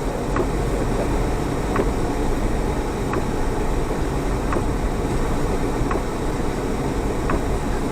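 Off-road vehicle driving, a steady rumble of engine and tyres, with a faint tick about every second and a half.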